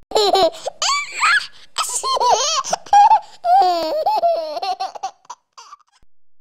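A small child laughing with high-pitched squeals and gasps, breaking off about five seconds in.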